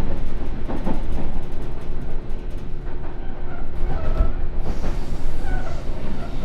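Sotetsu New 7000 series electric train, fitted with Hitachi GTO inverter control, running on the rails: a steady rumble of wheels on track, with brief whining tones about halfway through.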